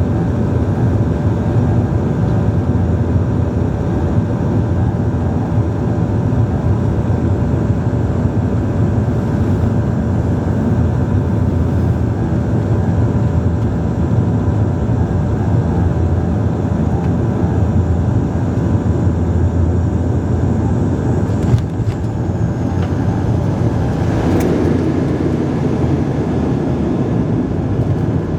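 Bombardier Dash 8-Q400's Pratt & Whitney PW150A turboprop engines and propellers running, heard from inside the cabin as a loud, steady drone with several steady humming tones. A brief click comes about three-quarters of the way through, and a second short sound a few seconds later.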